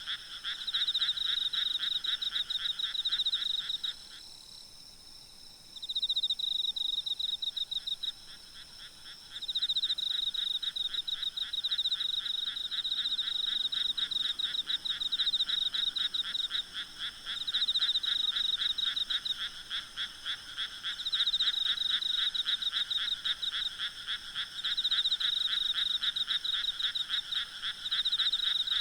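A night chorus of frogs calling in rapid pulsed trains, many voices overlapping, with insects trilling steadily and more faintly in a higher pitch. The frog chorus thins out briefly about four seconds in and again about eight seconds in, then carries on densely.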